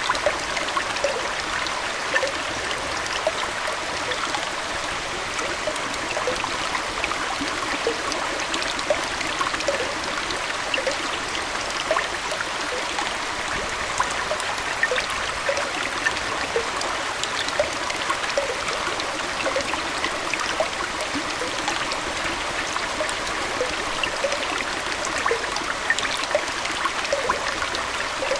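Aquarium water trickling and flowing steadily, with many small bubbling plinks scattered through it.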